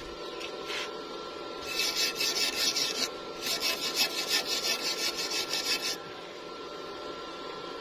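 Rapid rasping strokes of a hand tool scraping a workpiece, in two bouts: one starting about two seconds in and lasting about a second and a half, then after a short pause a longer one of about two and a half seconds.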